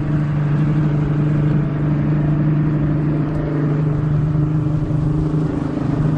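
Yamaha 225 V6 outboard motor running steadily, a continuous engine hum.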